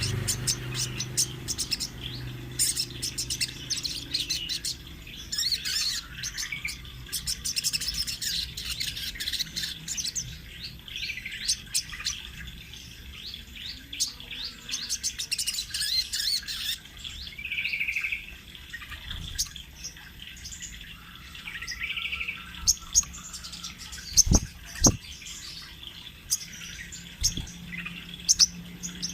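Sogon trotol songbird (sogok ontong) singing continuously in long rolling runs of rapid, high-pitched chirps and trills. Two short knocks sound about three-quarters of the way through.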